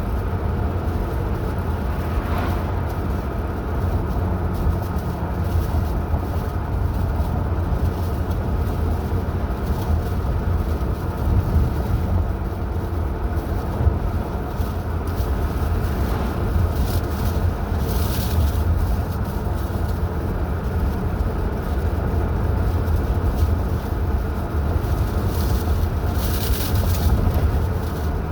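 Steady low rumble of a car being driven, road and engine noise, with brief hissing rushes about two-thirds of the way in and again near the end.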